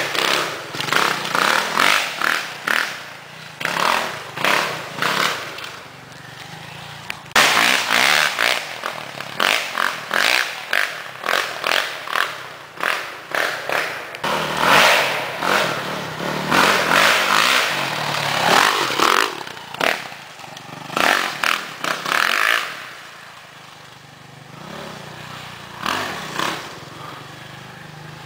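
Dirt bike engine, a 2007 Suzuki RM-Z450 four-stroke single, being ridden hard with the throttle opened and shut over and over in short surges. It eases off to a quieter stretch about three-quarters of the way through.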